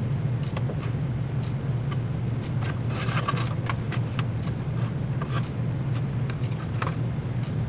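Lacing being pulled through a wicker basket: scattered light clicks and a cluster of scraping rustles about three seconds in, over a steady low machine hum.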